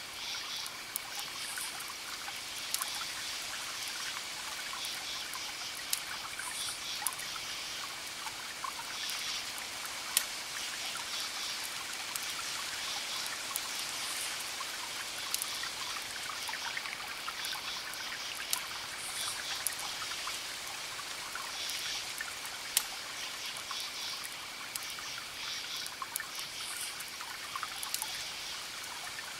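Wood fire crackling: a steady hiss with sharp single pops every few seconds. Bouts of high chirping from frogs or insects repeat in the background.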